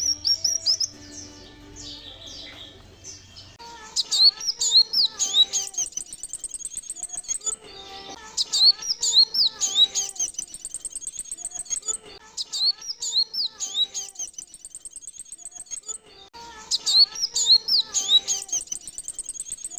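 Male kolibri wulung sunbird song played as a lure: rapid runs of high, sharp chirps and twitters in bursts that repeat about every four seconds, as from a looped recording.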